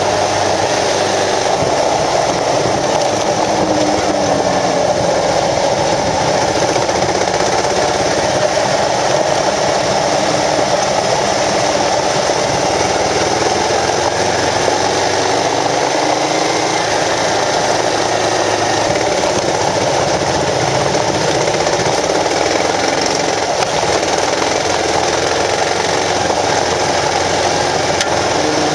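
Kawasaki KLR650 single-cylinder engine running under way, heard from the moving bike with heavy wind noise on the microphone; the engine note rises and falls a little with the throttle.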